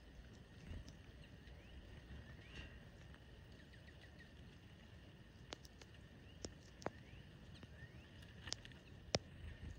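Faint small-bird chirps at a backyard feeder over a low background rumble, with about five sharp taps in the second half, the loudest near the end.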